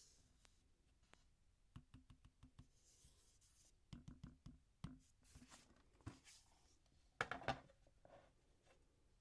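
Hands handling and tapping a Microsoft Surface Pro 7+ tablet: soft, scattered taps and clicks with light rubbing in between, the loudest cluster of taps about seven seconds in.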